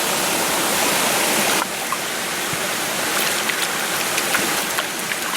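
Small mountain stream rushing and splashing over rocks close by, a steady hiss of water that drops slightly about a second and a half in. A few light ticks or small splashes come near the end.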